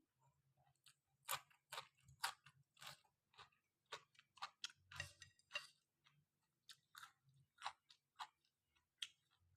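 Faint close-up chewing of khanom jeen rice noodles with kaeng tai pla curry, the mouth making short irregular clicks and smacks about twice a second.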